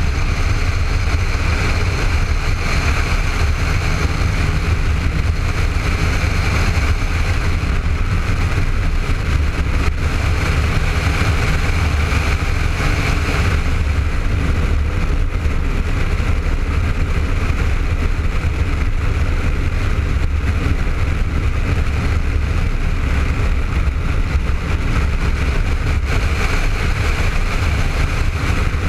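Honda ST1300 motorcycle cruising at a steady pace, its V4 engine drone buried under heavy, steady wind rush on the helmet-mounted camera.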